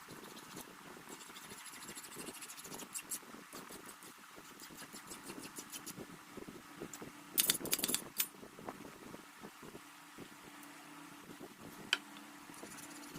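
Metal clinking and scraping of workshop handling, with a quick cluster of sharp metallic clinks about halfway through and one more clink near the end. A steady low machine hum starts in the last few seconds.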